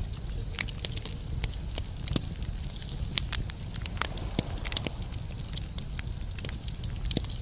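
Wood logs burning in a fireplace, crackling and popping with many irregular sharp snaps over a steady low rumble of the flames.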